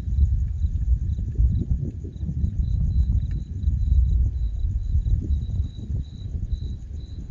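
Crickets chirping steadily in a high, pulsing trill about two or three times a second, over a loud, uneven low rumble of gusty wind buffeting the microphone ahead of a thunderstorm.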